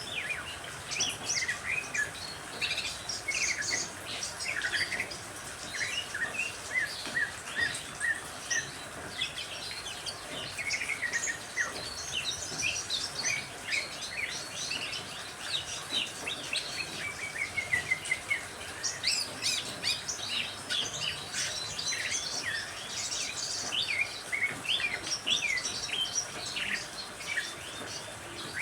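Several songbirds chirping and trilling at once in a dense, overlapping chorus of short high notes, with no pause, over a steady background hiss.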